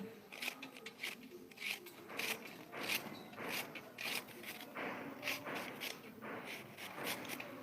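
Close-miked chewing of crunchy food, with irregular crisp crunches several times a second.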